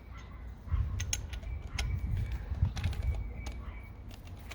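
Scattered clicks and light metallic clinks of a drill chuck and masonry bits being handled during a bit change, over a low handling rumble.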